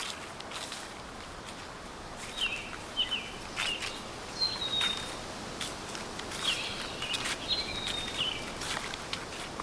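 Footsteps crunching through dry fallen leaves at a slow, steady walking pace, with a small bird giving short high chirps again and again from about two seconds in.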